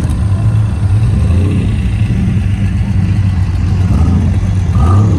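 An off-road vehicle's engine running steadily close by at a low idle.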